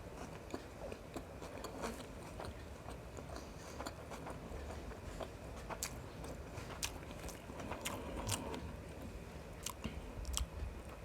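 Close-up mouth sounds of a person chewing and biting biryani and mutton, with irregular small wet clicks and smacks.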